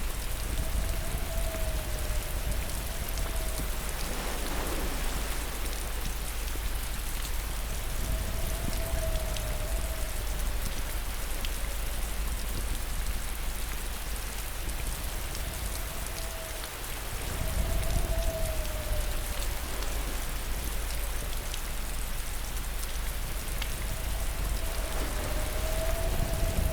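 Steady rain falling, an even hiss of drops. A faint wavering tone comes and goes over it, and a deeper swell rises about 17 seconds in.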